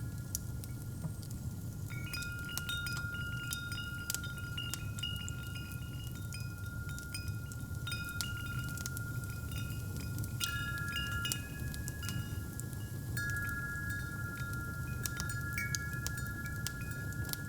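Metal wind chimes ringing in scattered clusters of strikes, some notes hanging on for several seconds, over the steady low rumble and small crackles of a fireplace fire.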